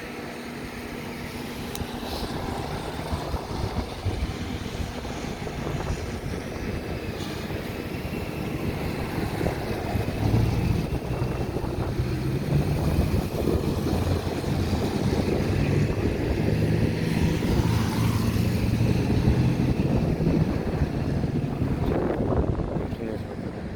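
A vehicle engine running at a steady pitch, growing louder about ten seconds in, over wind rumbling on the microphone.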